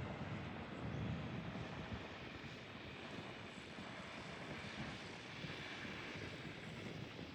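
Steady rumble of a vehicle on the move, with wind noise on the microphone, easing slightly after the first couple of seconds.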